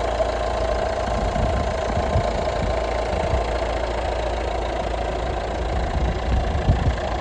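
Citroën Berlingo's turbocharged engine idling steadily with the bonnet open.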